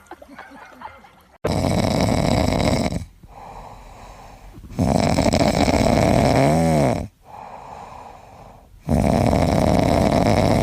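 A pet snoring loudly: three long, rasping snores, each about two seconds long, with quieter breaths between them.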